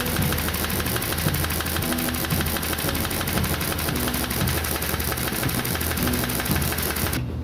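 A machine running steadily with a fast, even pulsing knock. It cuts off abruptly near the end.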